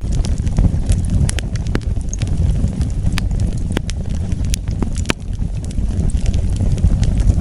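Wood fire burning: a steady low rumble of flames with irregular sharp crackles and pops, about one or two a second, thinning out near the end.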